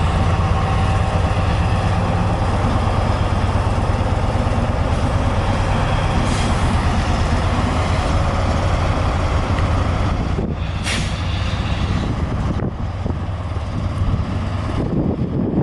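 Diesel train engine running close by with a loud, steady low hum, and a brief hiss about eleven seconds in.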